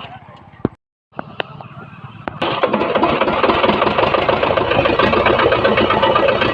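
An old tractor's engine starts about two and a half seconds in and keeps running with a dense, rapid chugging, after a few sharp clicks.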